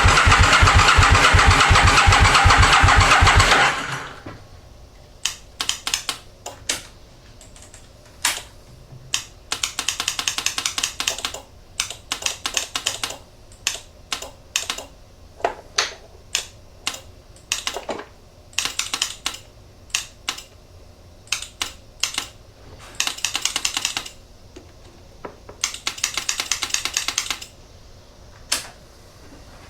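An Aprilia Mille R's V-twin cranked over by its starter motor with no fuel, with a steady pulsing beat, stopping after about three and a half seconds. Then come repeated sharp clicks and several short buzzing bursts from the starter relay, which clicks without passing current to the starter: the relay has been fried by overheating.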